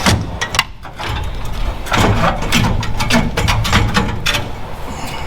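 Metal clanks, knocks and rattles of parts being handled as the air-conditioning condenser is worked up and out of the truck's front end: a quick string of sharp hits at the start, a brief lull, then a longer run of clattering.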